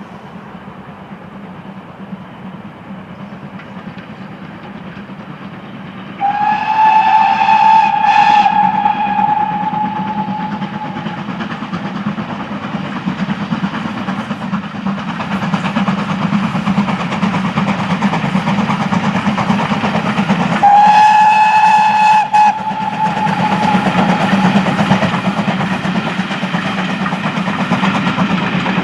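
A steam locomotive's whistle sounds two steady single-pitched blasts, the first about six seconds in and the second about twenty-one seconds in. Under them runs the steady running noise of the train, which grows louder.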